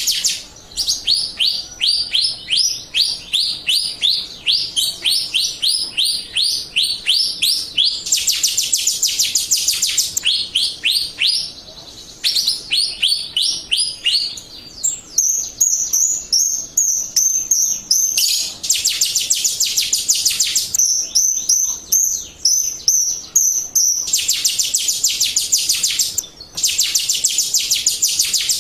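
Jalak Rio starling calling in long runs of quick, repeated falling chirps, about three a second, alternating with fast, high, buzzy trills, with a couple of brief pauses. It is a pancingan song used to provoke caged birds into answering.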